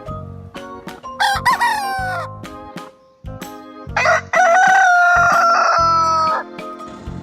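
Rooster crowing twice: a short crow about a second in, then a long, loud crow with a held, slowly falling pitch about four seconds in. Background music with a steady beat plays underneath.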